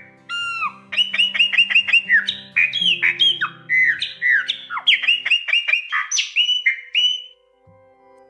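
A chopi blackbird (graúna) sings a long, loud run of clear whistled notes, many sliding downward, including a quick burst of about six short notes a second in; the song stops about seven seconds in. Soft background music plays beneath it for the first part.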